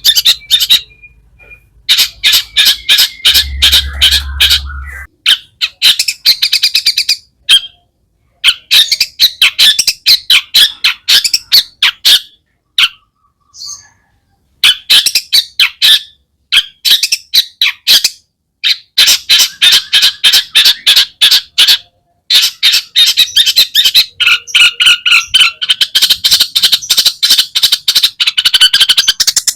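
Long-tailed shrike (cendet) singing a loud, fast chattering song of rapid, sharp repeated notes, packed with calls borrowed from other birds, broken by a few short pauses.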